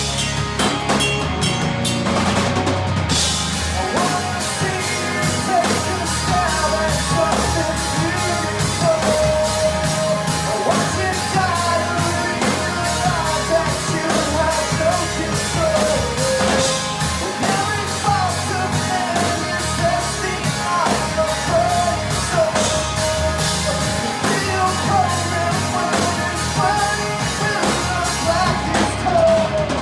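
Rock band playing: drum kit and amplified instruments with a singing voice over them.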